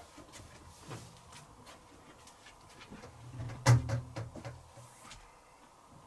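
Hoover H-Wash & Dry 500 washer-dryer drum tumbling a heavy wash load: irregular soft thuds and clicks over a low motor hum, with one louder knock a little past halfway.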